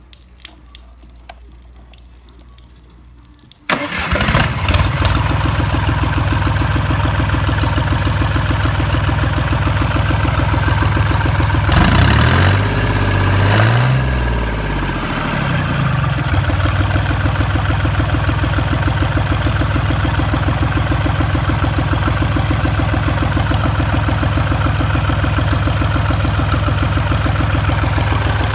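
Lomatec 21 hp marine engine starting about four seconds in after a few quiet seconds, catching at once and idling steadily. Around twelve seconds in it is revved up briefly, the pitch rising and falling, then settles back to idle.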